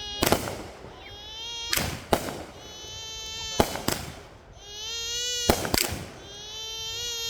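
A repeater firework cake firing, its shots going off in pairs of sharp bangs every second or two. Between the shots a young child cries in long wails.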